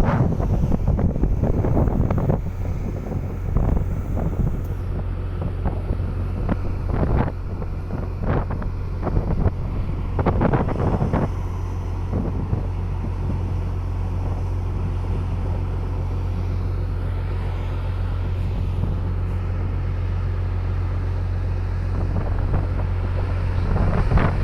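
Car ferry's engines droning with a steady low hum, with wind gusting on the microphone, mostly in the first half.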